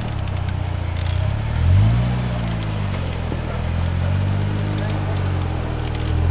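Off-road trial vehicle's engine revving up and down in slow swells, loudest about two seconds in, with occasional clicks.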